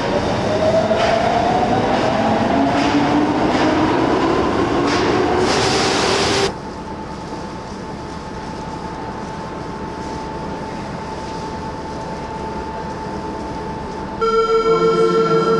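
Marunouchi Line subway train accelerating: its traction motors whine with a rising pitch over regular rail-joint clacks for about six seconds. The sound then cuts abruptly to a quieter steady running hum carrying a faint steady tone. Near the end, a loud pulsing tone starts.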